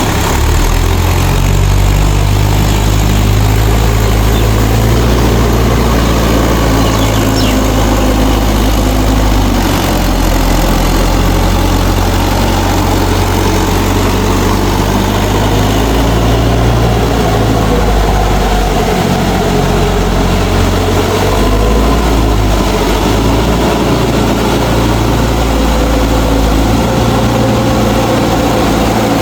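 Mahindra 4WD tractor's direct-injection diesel engine running steadily at close range, its low note shifting slightly now and then.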